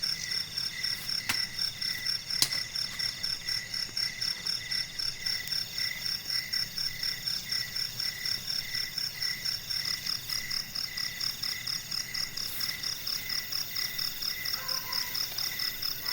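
Night chorus of crickets and other insects: steady, rapidly pulsing high trills, with a couple of sharp clicks in the first few seconds.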